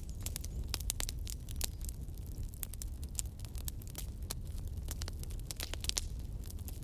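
Campfire burning, wood crackling and popping in irregular sharp snaps over a steady low rumble of the flames.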